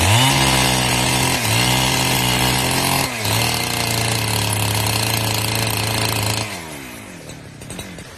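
Chainsaw revving abruptly to high speed and held there, dipping briefly twice, then dropping back and winding down about two-thirds of the way in.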